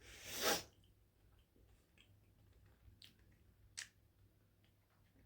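A short breath of about half a second, then a few faint soft clicks and squishes of someone chewing a marshmallow Peep.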